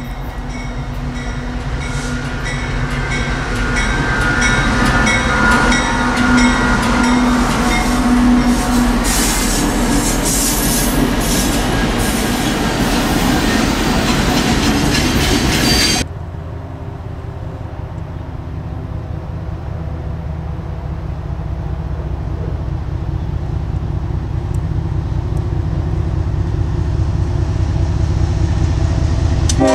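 A train running close by, loud rumble and hiss with steady tones over it, then a sudden cut about halfway through to a deeper rumble of another train that grows steadily louder as it approaches.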